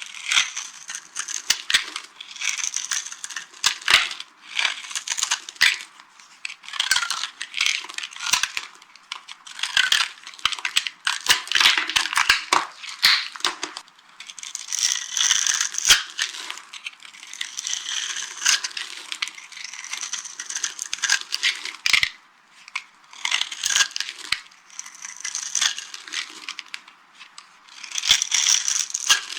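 Dry soap shapes being crushed, crunching and crackling in dense irregular bursts with short pauses between them.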